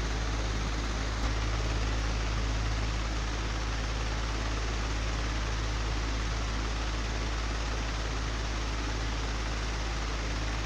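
Old electric fan running steadily: a low motor hum under an even rush of air, with one faint tick about a second in.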